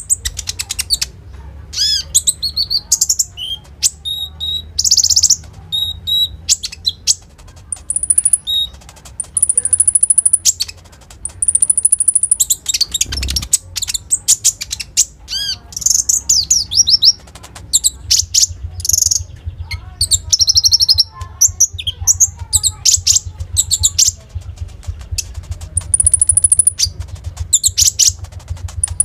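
Konin bird singing a fast, varied song of sharp chirps, rising and falling sweeps and long high trills, with mimicked phrases of other birds. A steady low hum runs underneath.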